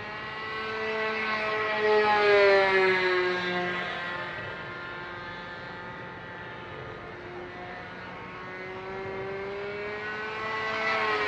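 Petrol-engined single-propeller RC model airplane flying past, its engine note swelling and dropping in pitch as it goes by, once about two seconds in and again near the end.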